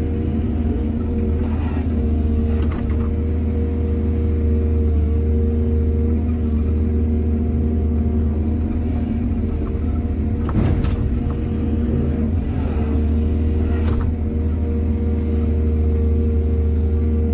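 Heavy diesel engine of an excavator running steadily while it works, with a few short knocks about two seconds in, around the middle and near three-quarters through.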